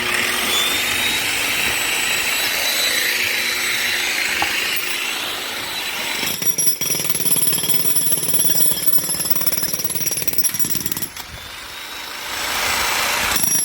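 Electric power tool chipping away concrete at the edge of a sump pit to clear room for the pump's float. It runs almost without a break, picks up a steady high whine about six seconds in, and eases off briefly near the end before starting again.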